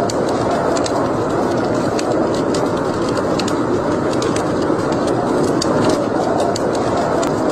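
Wood fire burning in a fireplace: a steady rush of flames with frequent small, irregular crackles and pops.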